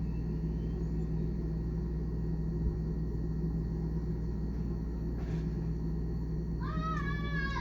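Refrigerator running with a steady low hum, heard from inside the closed fridge. Near the end a cat meows once, a rising-then-falling call about a second long.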